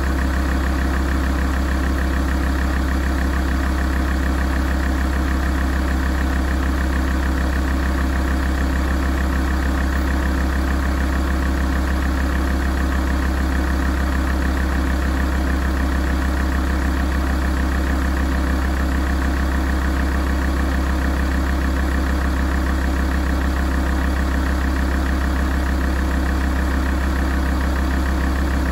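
Alfa Romeo 166 2.4 JTDm 129 kW five-cylinder common-rail diesel idling steadily, warming up, with an even, unchanging tone.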